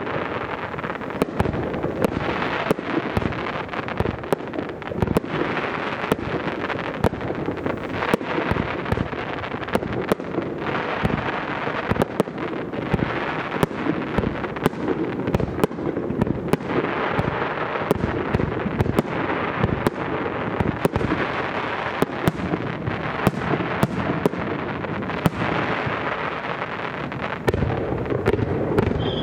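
Aerial fireworks display: a rapid, dense barrage of shell bursts, with many sharp bangs over continuous crackling.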